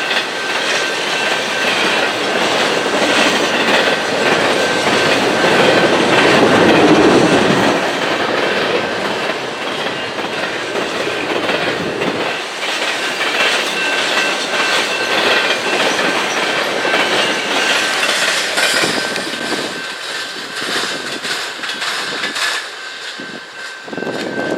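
A train rolling past with its wheels clicking over the rail joints and a thin steady squeal. It is loudest about seven seconds in, then slowly fades as it moves away.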